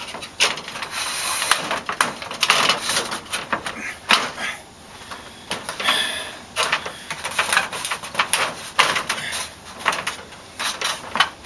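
Irregular knocks, clicks and scraping of door parts being handled and fitted during a door installation.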